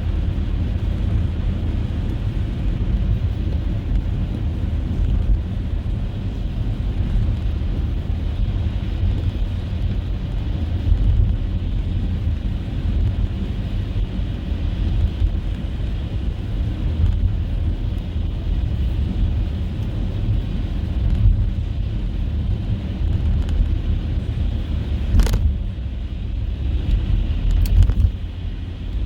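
Car driving: a steady low rumble of road and engine noise, with a single sharp click near the end and a few faint ticks just after it.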